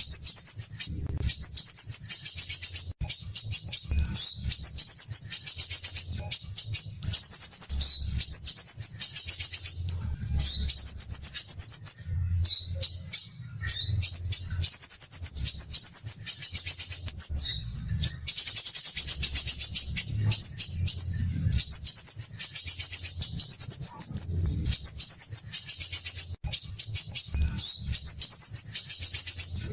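Crimson sunbird singing a continuous run of rapid, harsh, closely packed trills, in phrases about one to two seconds long with brief breaks between them.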